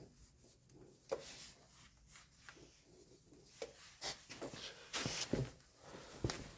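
Scattered clicks, knocks and short scrapes of hand work with tools and parts, sparse at first and busier in the second half.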